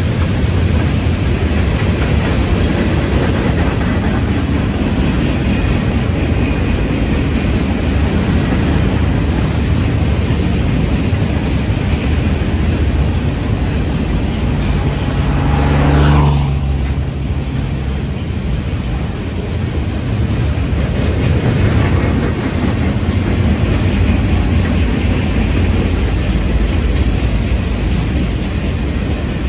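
A train rolling past, a loud steady rumble of wheels on rails. About halfway through, something passes close with a falling whoosh, then the rumble carries on.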